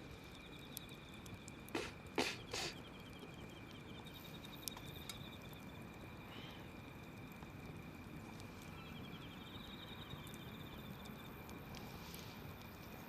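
Wood fire crackling softly, with a cluster of three sharp pops about two seconds in and small ticks now and then, over a steady high chirring trill in the background.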